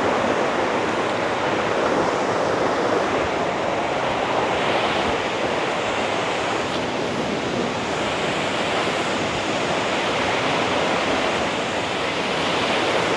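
Tad Yuang waterfall: a steady, loud rush of falling water, the falls running strong.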